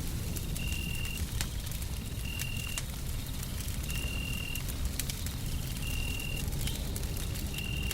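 Wood fire crackling with many small pops over a steady low rumble of white noise. A short high beep repeats about every second and a half.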